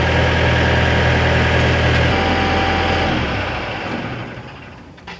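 An engine idling steadily, then shut off about two seconds in and running down to a stop by about four seconds.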